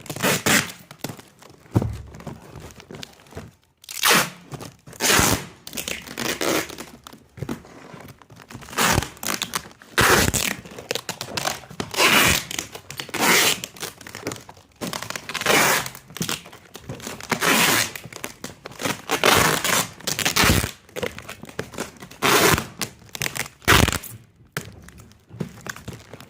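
Packing tape being pulled off the roll and pressed onto a cardboard carton, in a series of rasping tearing strips about every second or two, with cardboard crinkling and dull thunks between them.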